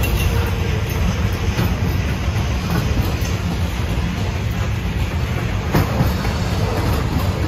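Train cars rolling past on the rails: a steady heavy rumble, with a few sharp clacks of wheels striking rail joints.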